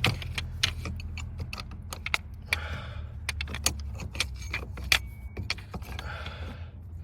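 Irregular metallic clinks and taps of a tool working at a car battery's negative terminal clamp, stuck on the post with corrosion, with a couple of heavy breaths and a steady low hum underneath.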